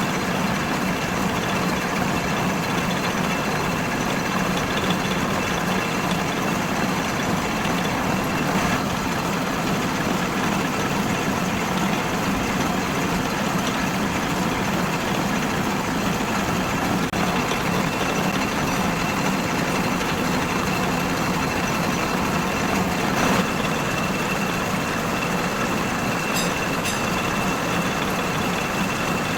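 Workshop machinery running steadily: a continuous mechanical drone with a faint, steady high whine over it.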